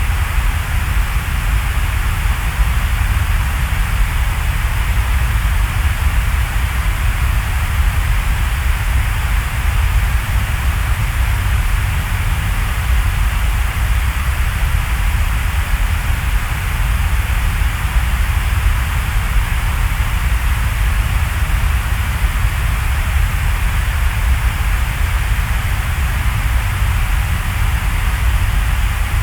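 Steady, dense rain falling in a forest, an unbroken hiss with a deep low rumble underneath and no separate drops standing out.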